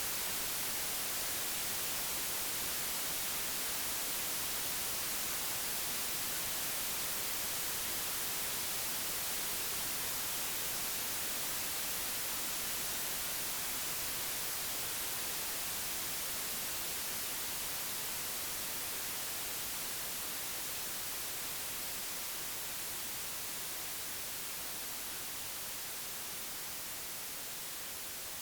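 Computer-generated white noise: an even, unbroken hiss across all pitches, slowly getting quieter through the second half.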